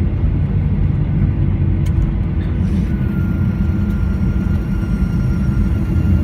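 Cabin noise aboard a Boeing 737-800 taxiing after landing: a steady low rumble from its CFM56 jet engines at low thrust and the rolling airframe. A faint steady whine joins about three seconds in.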